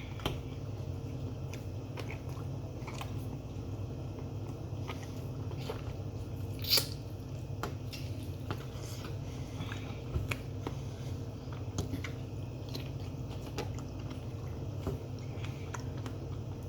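A person chewing and biting jerk chicken close to the microphone, with scattered small clicks and one sharper snap about seven seconds in, over a steady low hum.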